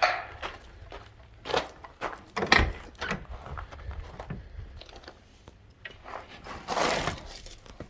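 Scattered knocks, clunks and rustles of handling, with the loudest clunk about two and a half seconds in and a short rush of noise near the end; no engine is running yet.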